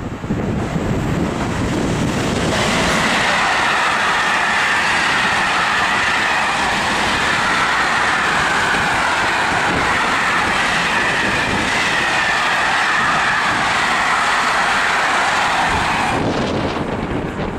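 Container freight train passing at speed: a steady rush of wagon wheels rolling on the rails. It swells about two seconds in and drops away near the end as the last wagons go by.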